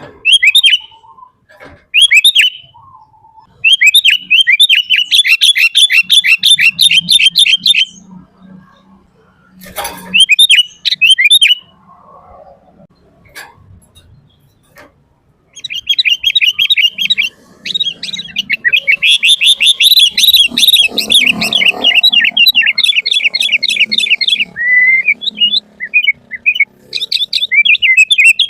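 Sooty-headed bulbul calling loudly in fast chattering runs of short, quickly repeated notes. There are several short phrases and two long runs, one of about four seconds and one of about eight seconds, with pauses between them.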